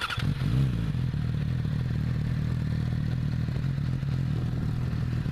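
2017 Yamaha R6's inline-four engine starting, catching with a brief rise in revs about half a second in, then settling into a steady idle.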